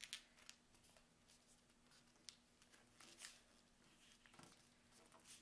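Faint rustling and crinkling of a sheet of paper being folded and creased by hand, in a few short, scattered strokes.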